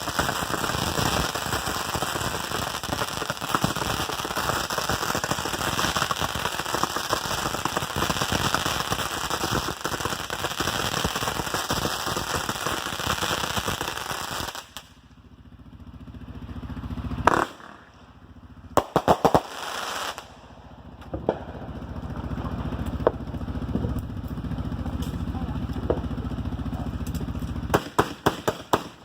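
Old consumer fireworks going off: a long stretch of dense crackling, then a sharp bang and separate pops over the second half, with a quick cluster of pops near the end.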